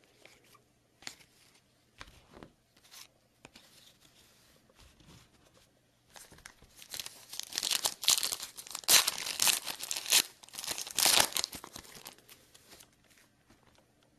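A trading-card pack's foil wrapper being torn open and crinkled by hand: a few faint clicks and rustles, then from about six seconds in several seconds of loud crinkling and tearing, dying down to faint handling noise near the end.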